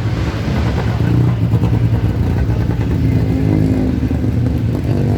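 Hill-climb race car engine running hard at high revs as the car passes.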